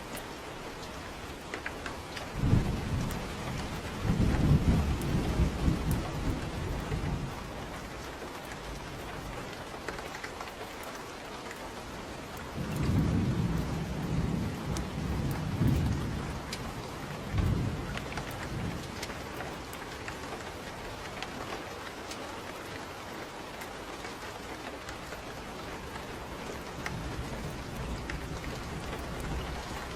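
Steady rain with thunder rumbling: a long roll starting about two seconds in, a second one about twelve seconds in, and a fainter rumble near the end.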